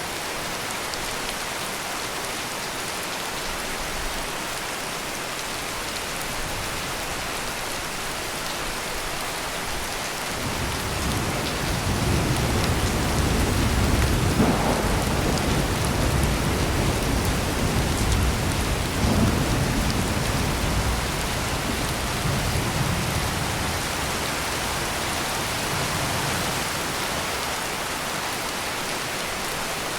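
Steady heavy rain hissing, with a long deep roll of thunder that builds about a third of the way in, swells twice, and dies away again.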